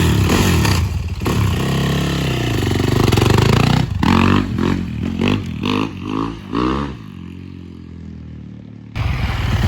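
2021 Yamaha YZ450F four-stroke single-cylinder dirt bike engine running, then revved in several quick throttle blips about four seconds in. It settles to a quieter low running sound, and loud engine noise comes back abruptly near the end.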